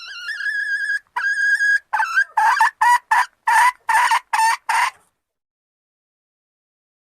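Junglefowl hen calling, a call used to lure males: a note that rises and is held for about a second, a second held note, then a quick run of about eight short clucking notes that stops about five seconds in.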